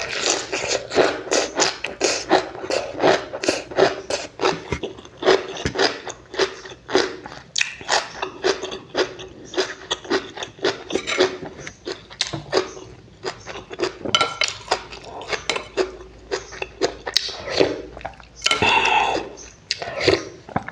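Close-up chewing of food during a mukbang: a steady run of wet, crunchy chews, about two to three a second, with occasional clinks of cutlery on a dish.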